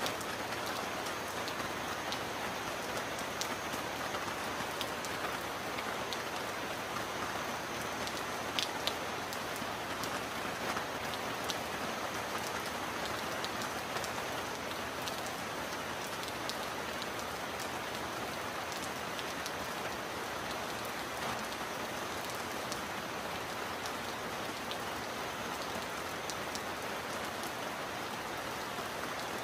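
Heavy rain on a metal roof, falling steadily, with scattered sharp drop hits standing out.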